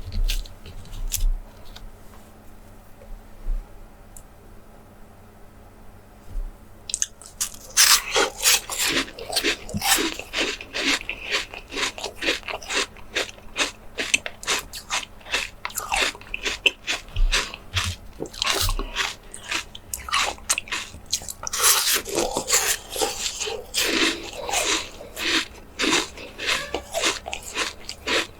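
Close-miked ASMR eating of small jelly desserts: biting and chewing with crisp, wet crackles. The first few seconds are quiet with a few clicks, then dense chewing begins about seven seconds in and keeps up.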